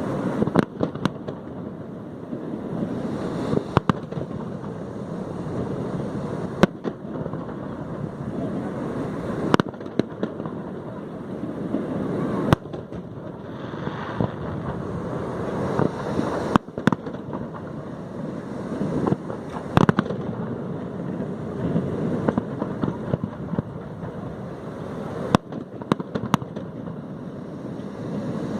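Aerial fireworks display: sharp single bangs of bursting shells every few seconds, about ten in all, over a continuous rumbling noise between them.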